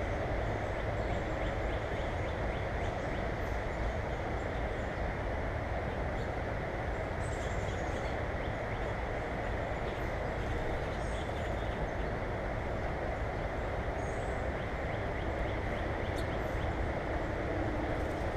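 Steady rushing noise, heaviest in the low end, with a few faint, short high chirps from small birds about 7, 11 and 14 seconds in.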